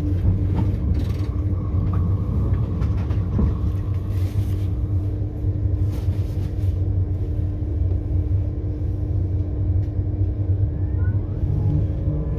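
Steady low rumble of a passenger train running along the track, heard from inside the carriage, with a constant hum and a few light rattles.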